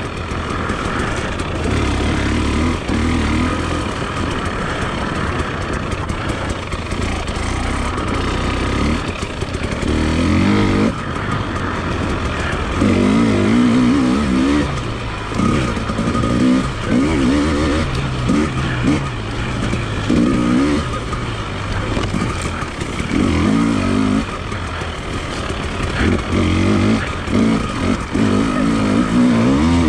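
Enduro motorcycle engine being ridden hard, its revs rising and falling in repeated short surges through the gears and throttle changes, over a constant rushing noise.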